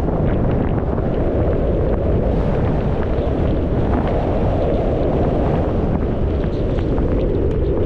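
Steady wind rush on an action camera's microphone while snowboarding downhill, mixed with the hiss and scrape of the snowboard sliding over snow.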